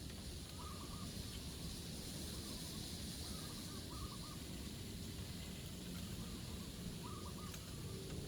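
Wind buffeting the microphone with a steady low rumble. Through it come short, wavering bird calls, repeated about every second or two.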